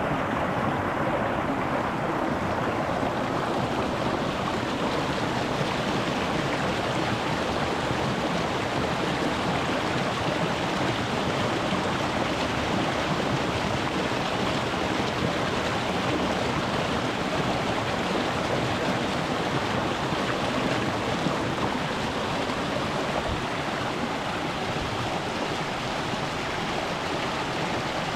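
Rocky mountain stream flowing over stones, a steady rushing of water.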